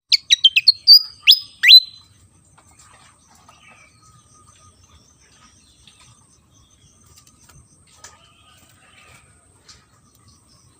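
Malaysian pied fantail (sikatan kipas) singing: a quick run of about seven sharp, falling whistled notes in the first two seconds, then only faint scattered chirps.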